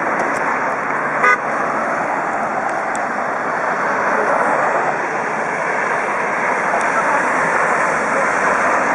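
Steady highway traffic noise from passing vehicles, with one brief car horn toot about a second in.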